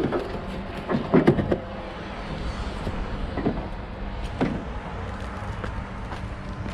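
Scrap being unloaded from a pickup: a few clanks and knocks, a cluster of them about a second in and single ones later, over a steady engine hum.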